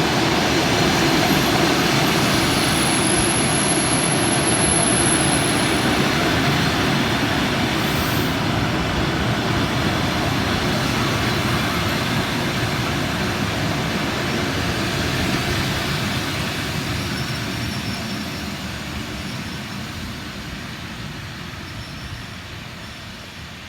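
A passenger train rolling past on arrival, its wheels running over the rails in a steady noise that fades over the last several seconds as the train slows.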